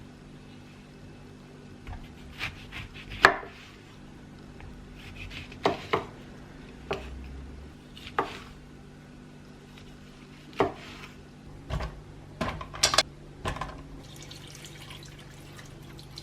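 Scattered clinks and knocks of dishes and utensils being handled in a kitchen, about a dozen short hits with the sharpest about three seconds in and a cluster near the end, over a steady low hum.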